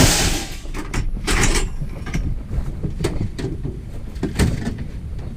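Scraping and knocking from a large heavy item being handled: a loud scrape at the start, another about a second later, then a few clunks, over a low steady rumble.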